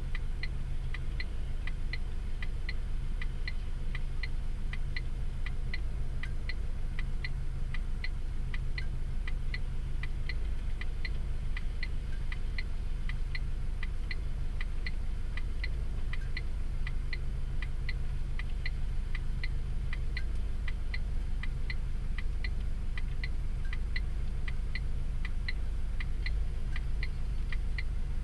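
Steady, even mechanical ticking, roughly two and a half ticks a second, over a low steady hum.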